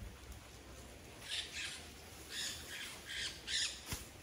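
A bird giving a run of harsh, raspy calls in quick pairs and triplets, starting a little over a second in. A single sharp click comes just before the end.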